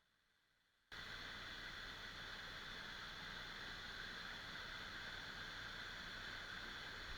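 Near silence, then about a second in a steady outdoor hiss cuts in abruptly and holds even.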